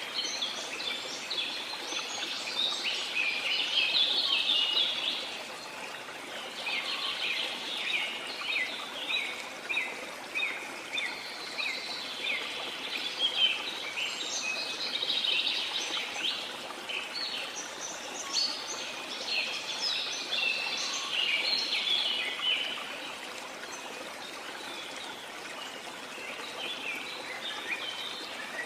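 Many birds chirping and singing in quick runs of short notes over the steady rush of a waterfall. The birdsong eases off for a few seconds late on, leaving mostly the water, then picks up again near the end.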